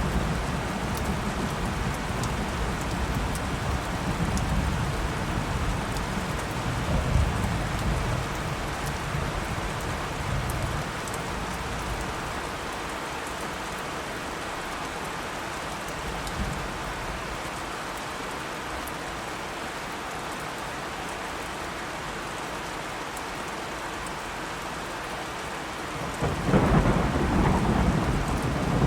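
Steady rain falling, with rolling thunder rumbling low for the first several seconds, fading to rain alone, then a fresh peal of thunder breaking in near the end.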